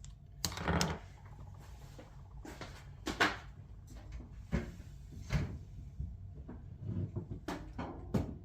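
Irregular knocks and clunks of hands working around an opened clothes dryer's cabinet, the most distinct about three seconds in.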